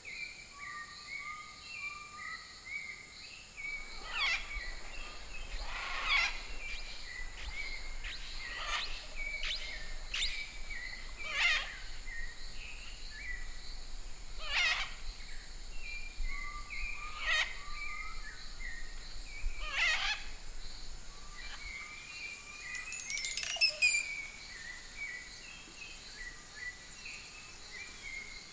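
Amazon rainforest soundscape: a steady high insect drone under many chirping birds, with a loud, short sweeping call repeated every few seconds from about four seconds in.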